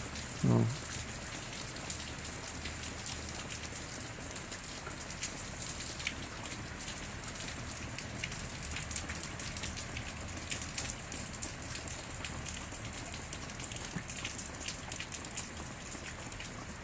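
Steady summer rain falling on the yard: an even hiss with many small drop ticks and patters throughout.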